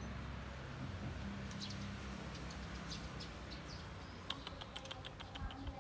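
Faint high chirps, like small birds calling, over a steady low background hum, with a quick run of light ticks a little past the middle.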